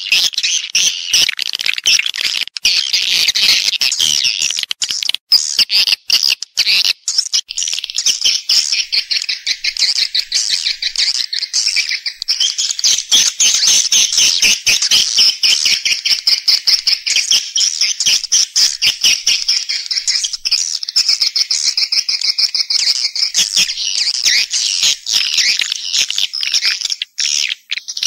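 Edible-nest swiftlets twittering in a dense, continuous chorus of rapid high chirps: the call recording played to lure swiftlets into a nesting house.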